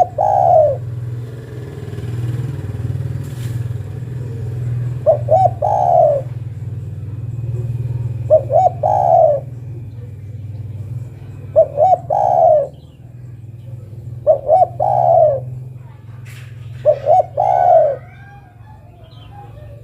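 Female spotted dove (derkuku) cooing to call a male. Six calls come about every three seconds, each two short notes and then a longer falling coo, over a steady low hum.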